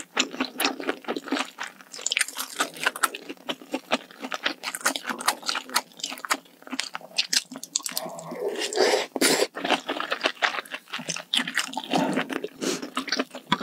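Close-miked chewing and crunching of malatang hot pot, vegetables and mushrooms in spicy broth, with many quick crisp crunches and wet mouth sounds.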